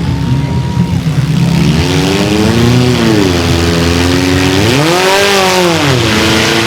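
Mini monster truck engine revving hard, its pitch repeatedly climbing and dropping, with the highest rev about 5 seconds in.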